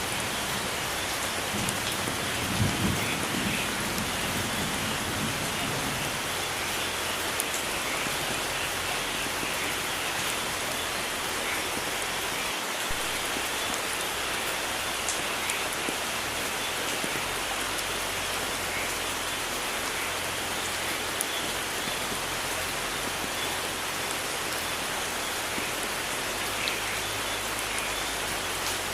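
Steady heavy rain falling on foliage and surfaces, a dense even hiss with scattered individual drop clicks. A brief low rumble swells during the first few seconds.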